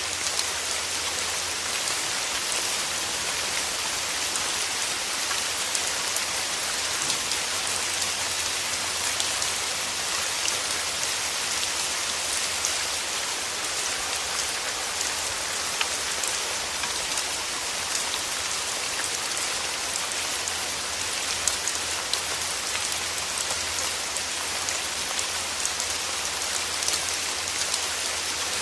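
Steady rain, a dense even hiss of many fine drops pattering on a surface.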